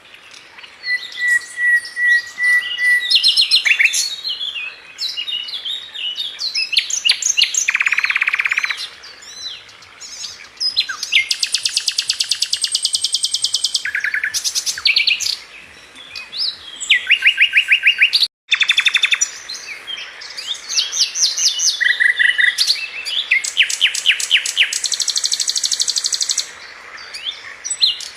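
A flycatcher (the bird sold in Indonesia as "Sikatan London") sings a varied, continuous song of rapid high trills, fast buzzy note series and short whistled notes, broken once by a very short gap a little past halfway.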